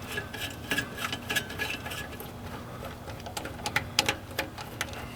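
Irregular light clicks and taps of hand tools against the metal of a diesel hydronic heater's burner assembly.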